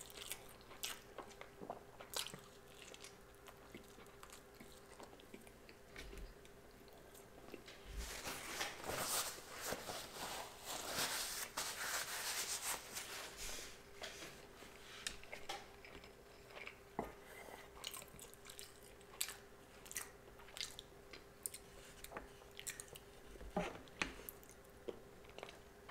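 Close-miked chewing and biting of sushi, with many small wet mouth clicks. The chewing is busiest from about eight to fourteen seconds in.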